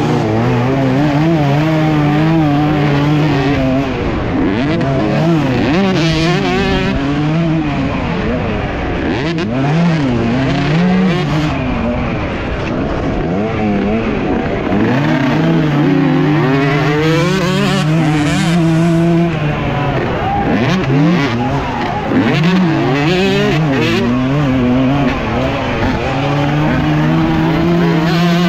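Dirt bike engine heard close up from a camera on the bike, revving up and dropping back again and again as it is ridden around a motocross track, sometimes held steady at a constant pitch for a few seconds.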